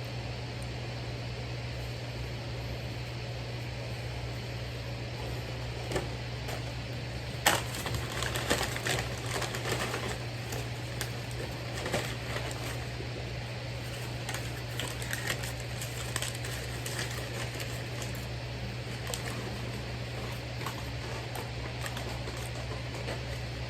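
A steady low hum from a fan or similar appliance. About seven seconds in there is a sharp click, then a few seconds of crackly rustling and small clicks, with scattered clicks after that.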